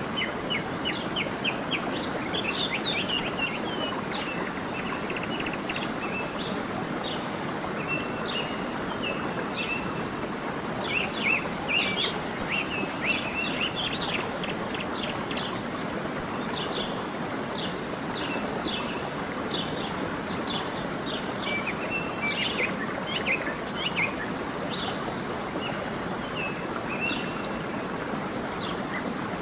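A stream running steadily with a constant rush of water, under frequent high chirps and short trills from several small songbirds.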